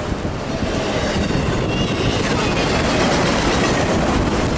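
A train passing close by at speed, its wheels clattering over the rails within a steady rushing noise, with faint wheel squeal.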